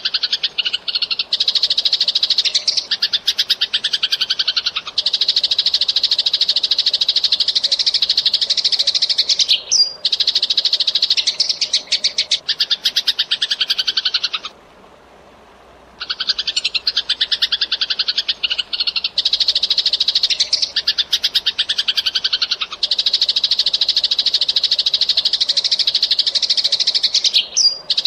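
Eurasian tree sparrow chattering in fast, dense runs of chirps. After a pause of about a second and a half midway, the same run of calls starts over.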